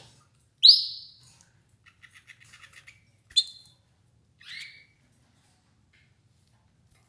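Domestic canaries calling: a loud call falling in pitch under a second in, a quick run of short chirps a little later, then two shorter calls near the middle.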